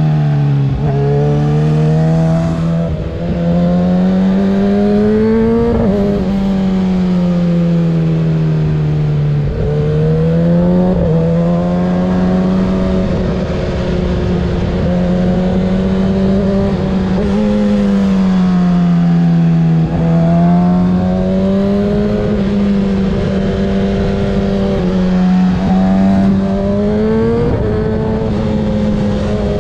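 Kawasaki ZX-6R 636 inline-four motorcycle engine with a Graves exhaust, ridden through a run of corners: the engine note climbs under acceleration and sinks as the throttle is rolled off, several times over, with a few sudden drops in pitch at gear changes.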